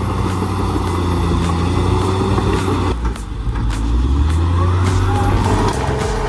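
Heavy diesel machine engine running steadily under load, a deep drone with scattered clanks and knocks. The sound dips and shifts briefly about three seconds in.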